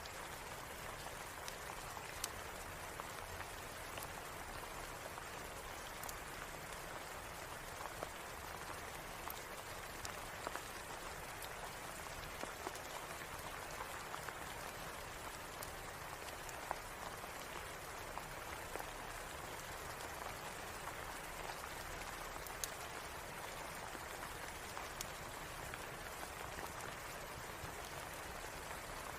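Steady rain falling, with scattered sharp clicks of single drops through it.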